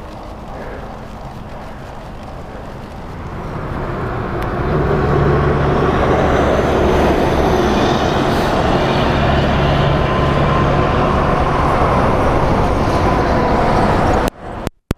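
A heavy engine's low drone with rushing road and wind noise, swelling over the first few seconds and then holding loud. Near the end the sound cuts out in sharp gaps.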